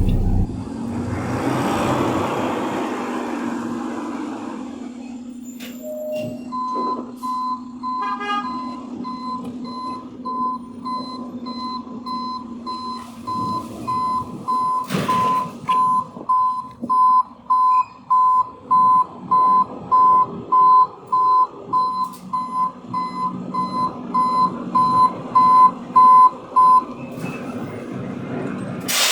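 Garbage truck's reversing alarm beeping at one pitch, about one and a half beeps a second, over the truck's steady engine running. The beeping starts a few seconds in and stops near the end, followed by a short loud hiss.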